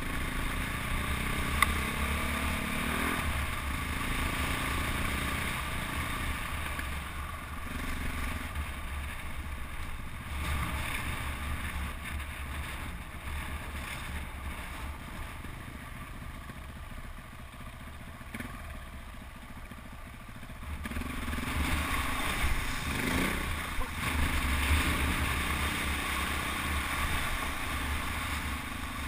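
KTM 400 EXC single-cylinder four-stroke enduro engine heard on board while riding, revving up with a rising pitch in the first few seconds, easing off through the middle and pulling harder again about two-thirds of the way through. A single sharp knock about a second and a half in.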